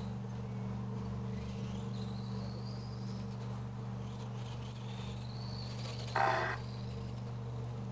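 Electric RC short course trucks' motors whining faintly, rising and falling in pitch, over a steady low electrical hum. A short, loud tone sounds once about six seconds in.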